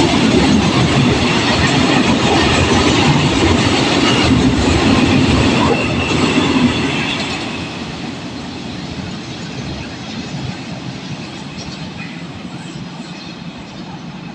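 Train wheels clattering over the rail joints as a train passes close by, loud for the first six seconds or so and then fading steadily as it moves away.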